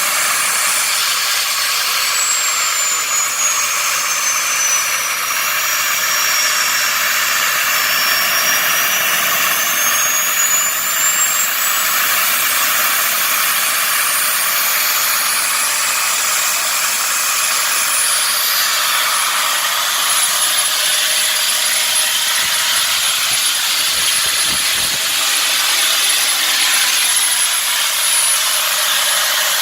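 Home-made gas turbine engine running with a loud rushing hiss and a high turbine whine. The whine falls in pitch over the first several seconds, then climbs back and holds high.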